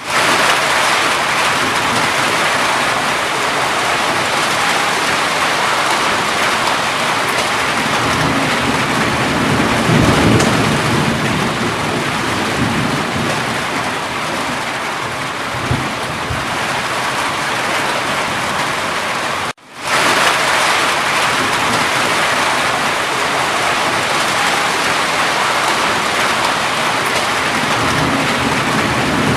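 Steady heavy rain, a dense even hiss, with low rumbles of thunder about a third of the way in and again a little later. The sound cuts out for a moment about two-thirds of the way through, then carries on as before.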